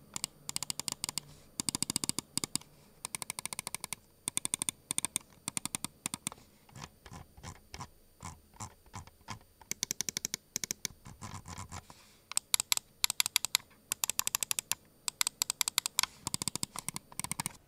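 Lamzu Atlantis gaming mouse buttons clicked in quick bursts of several clicks at a time, with short pauses between the bursts.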